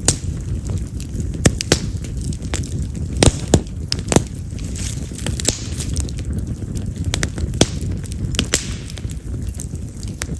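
Wood fire of split yamazakura (Japanese mountain cherry) logs burning: a steady low rush of flame with frequent, irregular sharp pops and crackles, a few of them loud snaps like firecrackers.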